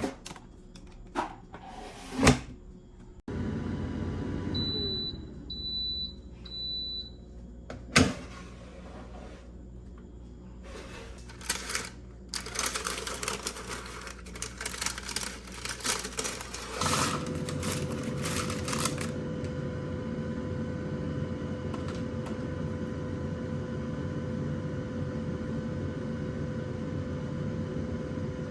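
Kitchen appliance being set and started: a few clicks, three short high beeps, a stretch of clattering, then a steady electrical hum with a clear tone.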